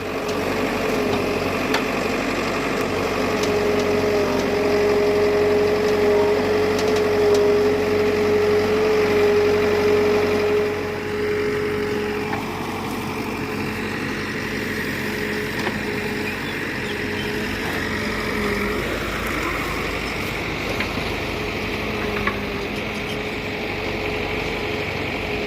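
Diesel tractor engine running steadily, louder for about the first ten seconds and easing slightly after, with a steady whine over the engine note.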